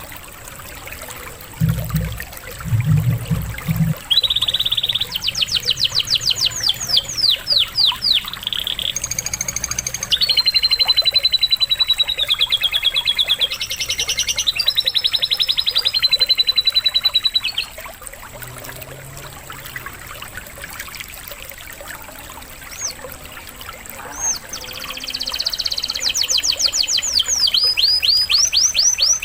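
Recorded canary song: fast rattling trills and long held whistled notes in separate phrases, with a quieter pause in the middle, over a faint trickle of running water. A few low thumps sound in the first few seconds.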